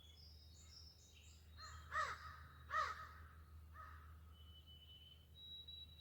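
A crow cawing: two loud calls about two and three seconds in, then a fainter third. Small birds chirp faintly and high-pitched in the background.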